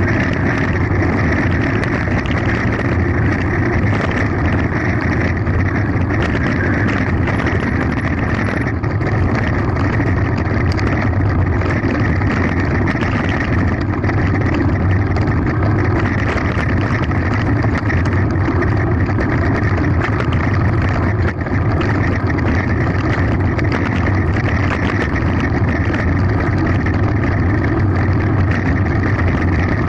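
Mountain bike running fast downhill on a gravel forest road: a steady rush of wind and tyre noise with many small rattles and clicks from the bike.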